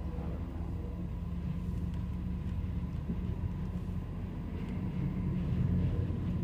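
Steady low rumble heard inside a vehicle's cabin, swelling slightly about five seconds in.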